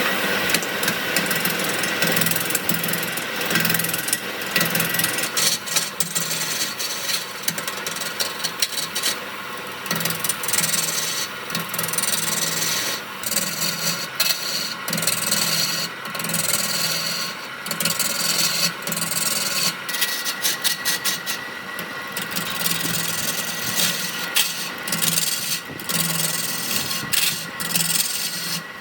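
An abrasive tool working wood, scraping across the surface in repeated uneven strokes.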